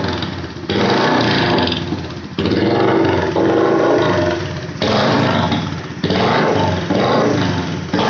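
Bajaj CT100's single-cylinder engine running and revving through a loud modified exhaust, in short segments with abrupt jumps in level every second or so.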